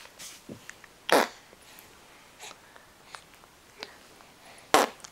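A baby making short breathy noises: two loud puffs, about a second in and near the end, with softer ones in between.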